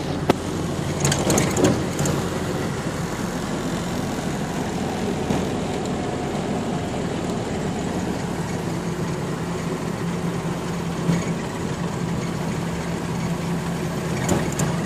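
A 1929 Ford Model A's four-cylinder flathead engine running steadily as the car drives along, heard from inside the cabin along with road noise. There are a few short clicks or rattles about a second in and again near the end.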